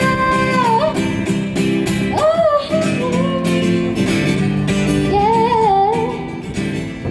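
Woman singing with acoustic guitar: a long held note that ends about a second in, then more sung phrases over steady strumming.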